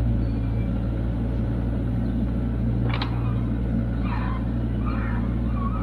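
Kubota KX121-3 mini excavator's diesel engine running steadily under load. There is a single sharp knock about three seconds in and faint squeaks near the end.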